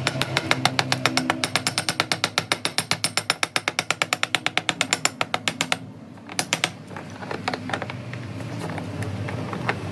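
A ratchet clicking rapidly and evenly, about seven clicks a second, for close to six seconds. It stops, clicks a few times more, and then gives only scattered single clicks.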